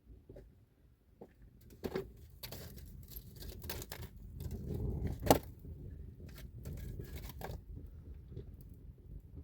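Scattered clicks and knocks over a low rumble, the loudest a single sharp knock about five seconds in.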